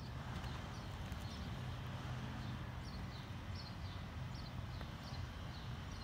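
A small bird calling faintly, a short falling chirp repeated about every three-quarters of a second, over a low steady hum.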